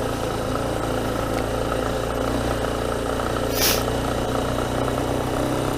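Yamaha Ténéré 250's single-cylinder four-stroke engine running at low, steady revs. A brief hiss comes just past halfway.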